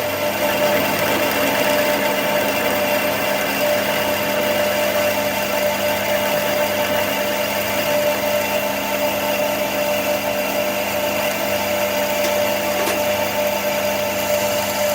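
Workshop machine running steadily, a constant mechanical hum with a clear high tone held throughout.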